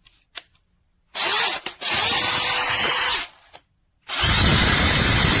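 DeWalt DCD805 20V MAX brushless compact hammer drill running, trigger pulled twice: a run of about two seconds starting about a second in, then a second run of about a second and a half, each a steady motor whine.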